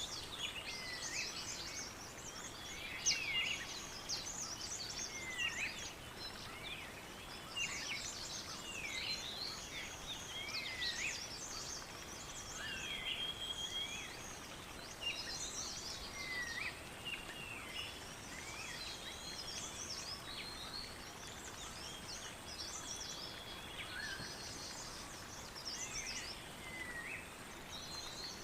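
Many small birds chirping and singing at once, a dense chorus of short overlapping calls and quick swooping notes, over a faint steady outdoor hiss.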